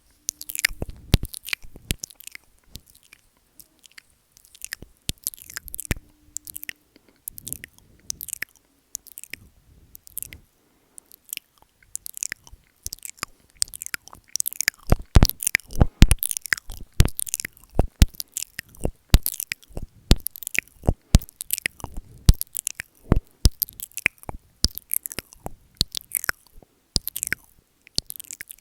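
ASMR mouth sounds made right at the microphone: a stream of wet clicks and smacks, sparse at first, then coming thick and louder about halfway through.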